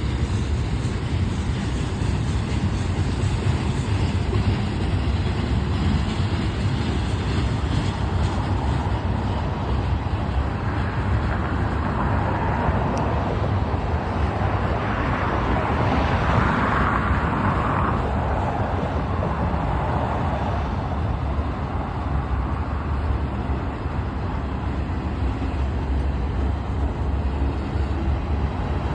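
Union Pacific manifest freight train rolling past: a steady low rumble of wheels on rail, with a noisier, brighter stretch swelling up in the middle.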